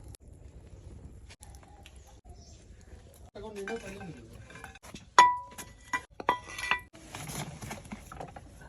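Metal tools clinking in a workshop: a sharp strike about five seconds in that rings on briefly at a clear pitch, then a quick cluster of further ringing clinks a second later.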